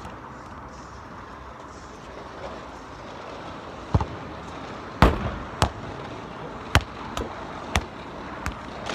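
Football being kicked and bouncing on hard ground: a string of sharp thuds starting about four seconds in, the loudest about a second later, over steady street traffic noise.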